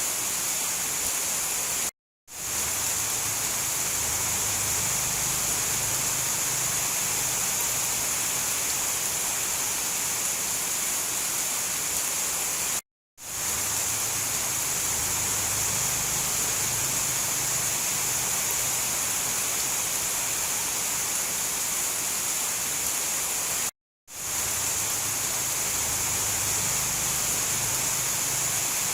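Steady hiss of heavy rain, with a faint low rumble beneath it. The sound cuts out to silence for a moment three times, about every eleven seconds, and fades back in each time.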